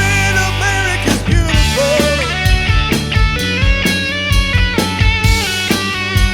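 Rock band playing: steady drum-kit beat under electric guitar and bass, with a drum fill about a second in.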